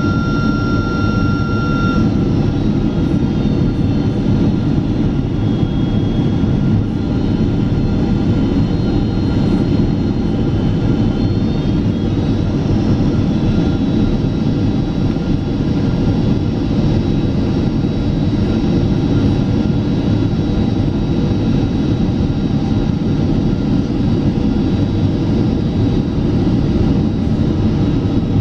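Boeing 767-400ER jet engines and rushing air, heard inside the passenger cabin as a loud, steady, deep roar. A high whine over it stops about two seconds in.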